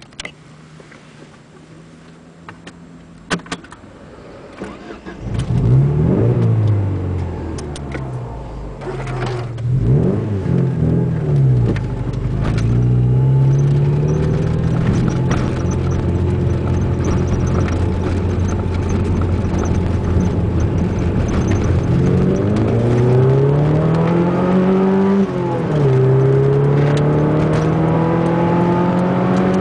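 Ford Zetec four-cylinder engine with a 4-into-1 exhaust header running loud as the car drives off: quiet with a few clicks at first, then the revs rise and fall twice, the engine pulls steadily, and it climbs again with a gear change about 25 seconds in before pulling up once more.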